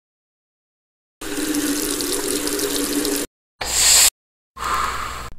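Water running in three separate spells: about two seconds of steady running, then two short bursts, the middle one the loudest.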